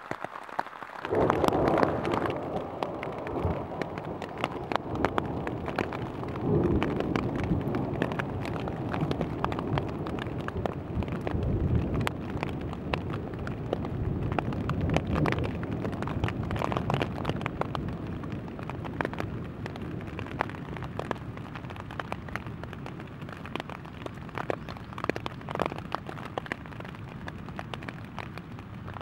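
Rain pattering on a rain fly, heard from underneath it: a dense patter of drop hits over a steady hiss, with louder swells of noise in the first few seconds.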